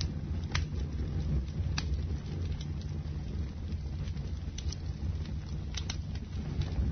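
Bonfire burning: a steady low rumble of flames with scattered sharp crackles and pops from the burning wood, a few standing out about half a second in, near two seconds, and twice around six seconds.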